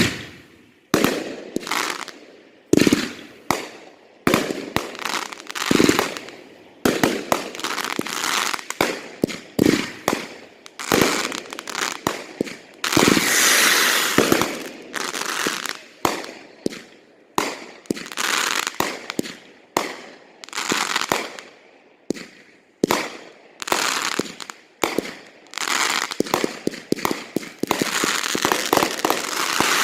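Backyard consumer fireworks going off: a steady run of sharp bangs, one or two a second, each fading out in a short echoing tail, with a stretch of dense crackling about 13 seconds in.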